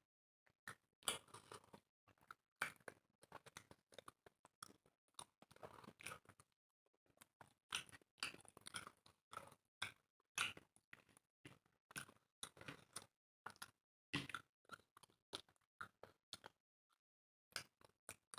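Close-miked chewing and eating sounds from two people eating chicken by hand: wet mouth smacks and crunches in short, irregular clicks.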